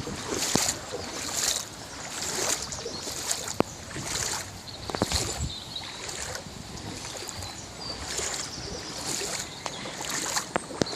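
Floodwater splashing and sloshing in a steady rhythm, roughly one surge a second, with a few sharp clicks.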